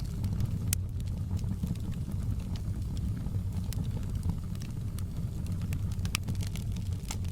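Wood fire burning in a fireplace: a steady low rumble of flame with irregular sharp crackles and pops scattered throughout.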